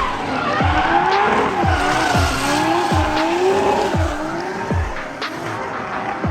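Drift car engines revving and tyres squealing, mixed with electronic music that has a heavy kick drum about twice a second.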